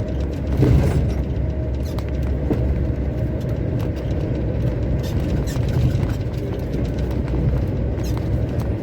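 A heavy truck's engine and road noise heard from inside the cab: a steady low rumble with scattered faint clicks and rattles.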